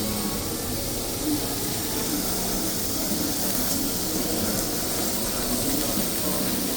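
Steady hissing sizzle of five-layer pork belly grilling at a Korean barbecue.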